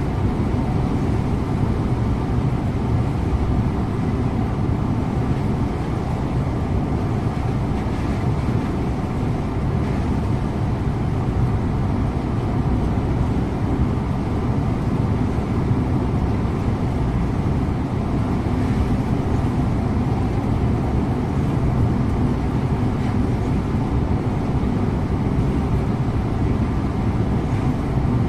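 Scania InterLink coach driving at a steady pace, heard from the driver's seat: an even mix of engine drone and road noise, with no sharp events.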